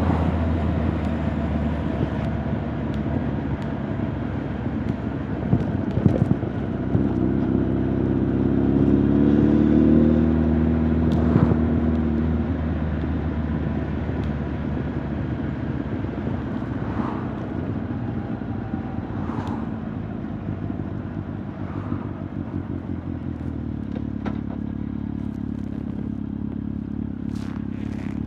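Honda CB1300 Super Bol d'Or's inline-four engine and exhaust running on the road, the pitch rising as it accelerates about a third of the way in, then settling to steadier cruising. Little wind noise is heard.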